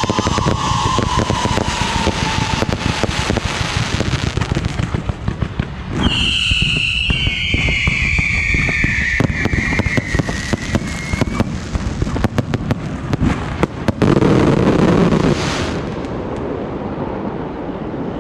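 Fireworks going off: dense, rapid crackling of bursts, with whistling shells falling in pitch, one at the start and a louder one about six seconds in. A heavier, deeper burst comes about fourteen seconds in, then the crackle thins out.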